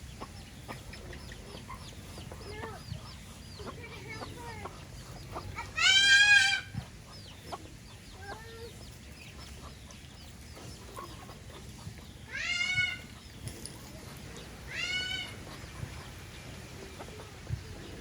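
Chickens clucking with small short calls throughout, and three louder drawn-out cries: one about six seconds in, the loudest, and two more later on.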